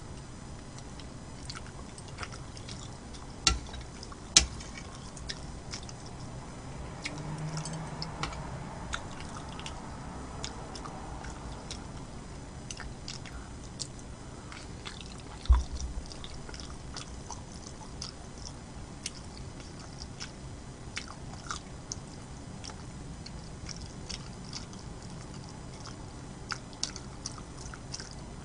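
A person chewing food close to the microphone, with many small wet mouth clicks. There are a few sharp knocks, twice early on and once about halfway through.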